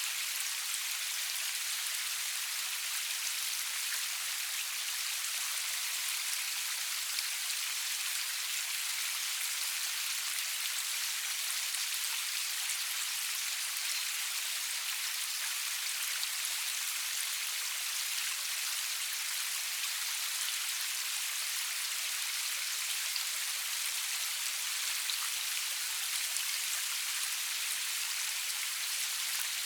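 Steady rain falling, an even hiss of many fine drops with tiny pattering ticks, no thunder.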